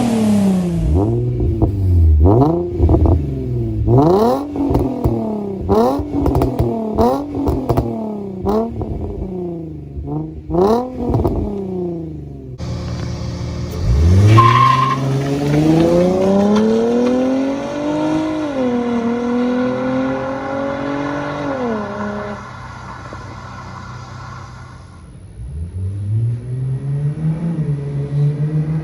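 Infiniti G35 coupe's 3.5-litre V6 being revved through its aftermarket exhaust. It starts with a run of about seven quick throttle blips, with sharp pops and cracks among them. After that comes one long rev that climbs, holds and falls away, and then a further rise that settles into a steady drone.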